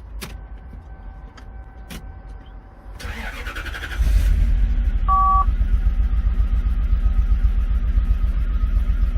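Starter briefly cranking the 1993 Lexus SC400's 4.0 V8 about three seconds in, then the engine catching and running steadily, much louder. A short two-tone beep sounds about five seconds in.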